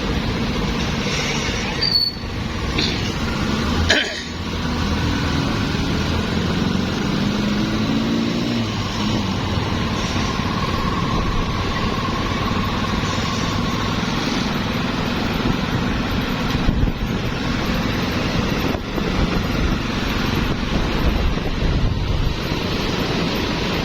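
Street traffic of motorbikes, cars and tuk-tuks passing: a steady mix of small engines and road noise, with one engine's note rising as it speeds up about six seconds in.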